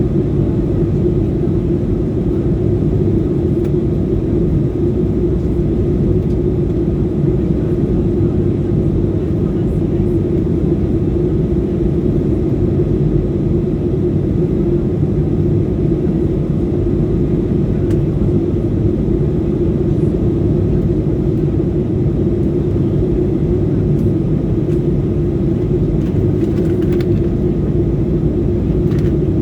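Steady, loud low rumble of engine and airflow noise inside an airliner cabin in flight, with a constant drone that does not change.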